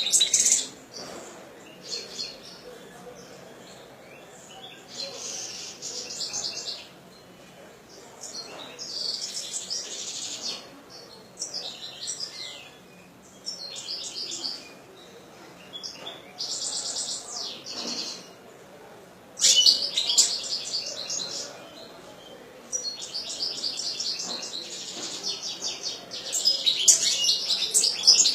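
European goldfinch singing in bouts of rapid, twittering high notes separated by short pauses, the loudest bouts about two-thirds through and near the end.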